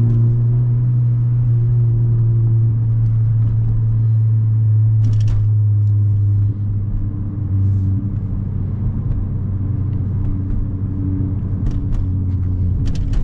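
Honda Civic Si's 1.5-litre turbocharged four-cylinder engine and road noise heard inside the cabin while cruising: a steady low drone at even pitch that drops in level about six and a half seconds in, as when easing off the throttle. A few brief knocks come from the rough road surface.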